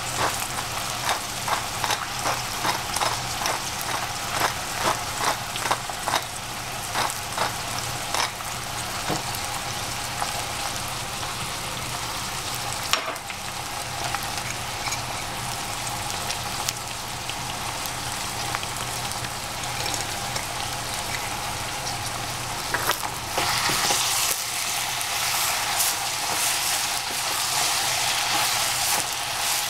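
Eggplant and squash sizzling as they fry in a pan, with rhythmic stirring strokes about two a second over the first several seconds and a single clack about halfway through. The sizzle grows louder near the end.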